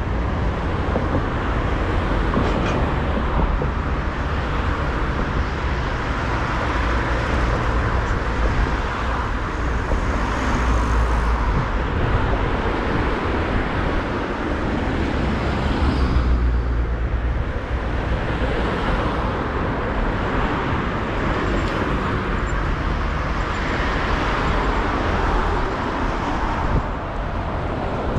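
Steady city road traffic: cars and other motor vehicles passing on a busy street, a continuous low rumble that swells and eases as vehicles go by.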